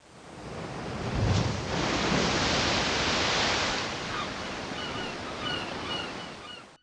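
Sea waves washing in: a rush of noise that swells, peaks and eases off, with a few short high chirps in the second half. It cuts off suddenly at the end.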